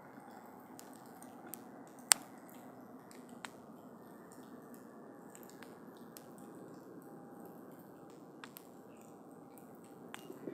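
Wood campfire burning with a steady low hiss, scattered small crackles and pops, and one loud sharp pop about two seconds in.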